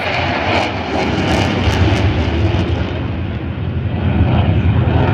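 Eurofighter Typhoon's twin Eurojet EJ200 turbofans at full power during a fast pass: loud jet noise that grows deeper and heavier about a second and a half in.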